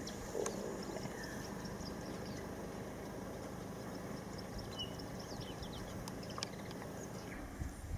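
Outdoor ambience: a low steady rumble with scattered faint high chirps and ticks, most of them near the middle.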